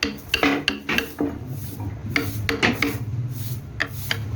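Repeated short scraping or rasping strokes of a hand tool on a workpiece, about two or three a second, with a steady low hum joining about a second and a half in.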